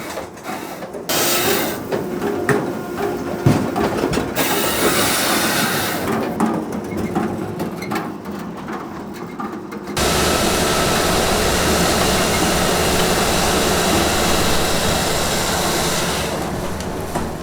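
Firewood-processing machinery cutting and splitting logs, running loudly with a sharp knock about three and a half seconds in. About ten seconds in it jumps suddenly to a louder, dense, steady noise that eases off near the end.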